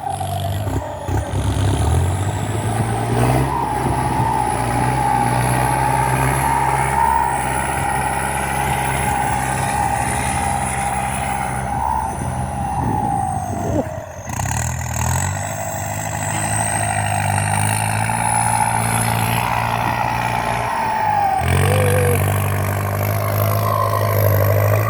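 Kubota M8808 tractor's turbo diesel engine running under load while pulling a disc plough through soil, with a steady turbocharger whine over the engine note. The engine and whine dip and fall briefly about halfway through and again near the end, then pick back up as the load changes.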